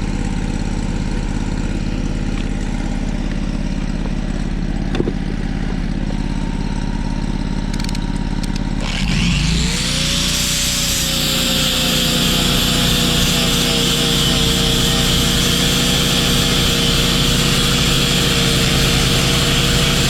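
An engine running steadily. About nine seconds in, a second machine starts with a quick rising whine that settles to a steady pitch, joined by a loud steady hiss that continues to the end.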